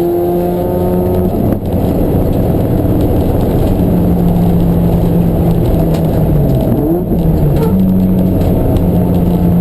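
Racing car engine running hard, its pitch stepping and gliding with gear changes; the pitch dips and climbs back a little past the middle.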